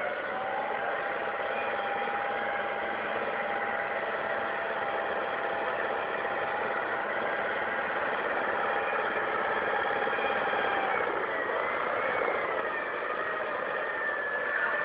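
An engine running steadily, with a thin whine over it that shifts in pitch about eleven seconds in.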